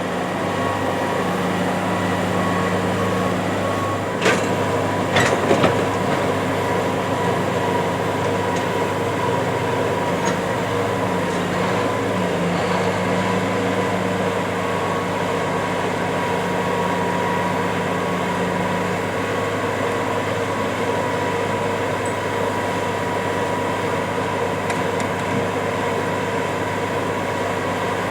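Case IH 8250 Axial-Flow combine running while harvesting corn: a steady machine drone with a few held tones. There are a few sharp knocks about four to six seconds in.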